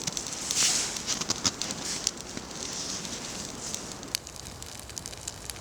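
Small campfire of birch bark and twigs burning, with irregular sharp crackles and pops over a hiss.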